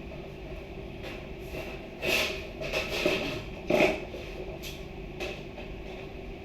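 A few sudden knocks and clatters, the loudest about two seconds in and just before four seconds, over a steady low hum.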